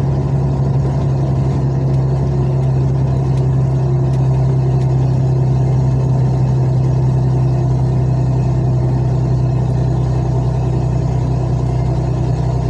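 Road vehicle's engine running steadily while driving: an even, low drone whose pitch holds constant throughout.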